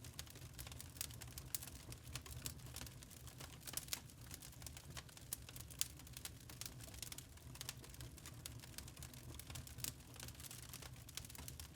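Wood fire in a fireplace crackling, with many small irregular pops and snaps over a soft low rumble of the flames.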